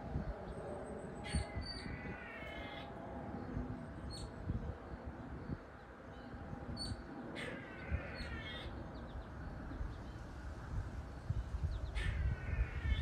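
A bird calling three times, each call lasting about a second and spaced several seconds apart, over a low rumble.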